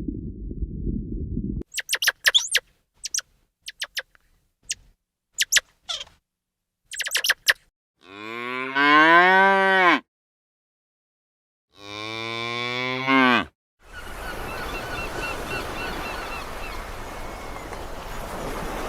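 A sequence of animal sounds: a low rumble at the start, a run of short, sharp clicks, then two long pitched calls that rise and then fall, and a steady, noisy stretch near the end.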